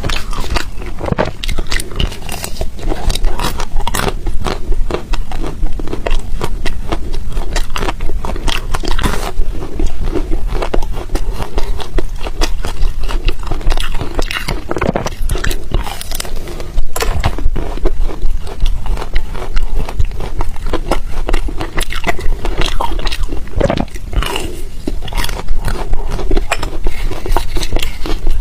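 Close-up crunching and chewing of ice: a dense, irregular run of crackling bites throughout.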